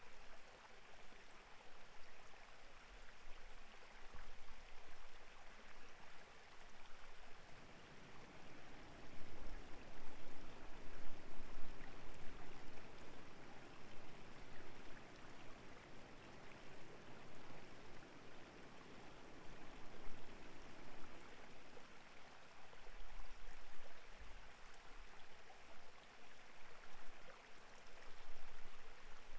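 Clear mountain stream flowing steadily over rocks, a continuous rush of water. It grows fuller and louder about a quarter of the way in, then eases again about three quarters of the way through.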